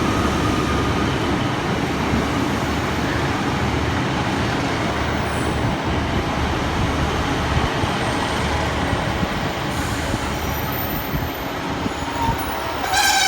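Two coupled Class 150 Sprinter diesel multiple units running into the platform, a steady rumble of diesel engines and wheels on rail. High wheel squeal begins right at the end.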